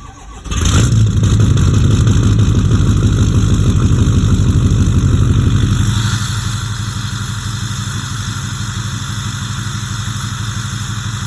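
Ford 6.0 Power Stroke V8 turbo-diesel starting from cold in extreme cold: it is still cranking at the start and catches about half a second in. It then runs loud and steady, and settles to a somewhat quieter idle about six seconds in.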